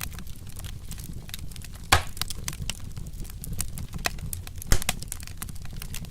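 Wood fire crackling, with frequent small snaps and two louder pops about two seconds and nearly five seconds in, over a steady low noise from the burning.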